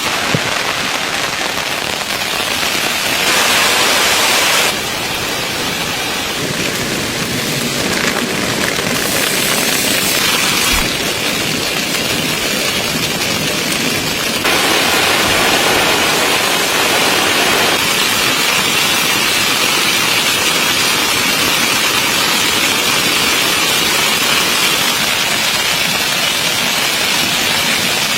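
Steady rain pattering on a tent's fabric, heard from inside the tent, with a few sudden shifts in loudness and brightness, louder and brighter for a couple of seconds about three seconds in.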